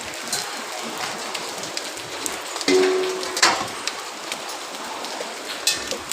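Steady heavy rain with hailstones falling, scattered sharp knocks of hail striking surfaces; the loudest knock comes about three and a half seconds in.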